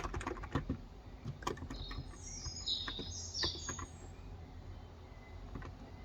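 A bird outside chirping a quick run of short high notes, about two seconds in. A few light keystrokes on a Cox Endeavor electrostatic-capacitive (35 g) keyboard sound at the start; after the chirps only a faint low hum is left.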